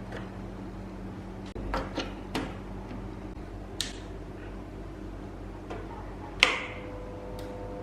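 A handful of short sharp clicks and taps, the loudest about six and a half seconds in, over a steady low electrical hum.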